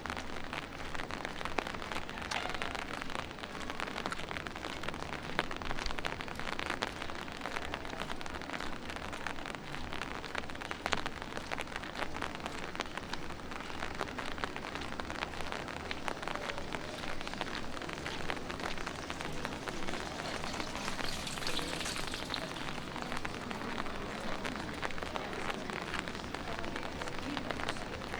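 Light rain falling on city pavement and surfaces: a steady patter made of many small drop ticks, with a brief louder hiss a little past two-thirds of the way through.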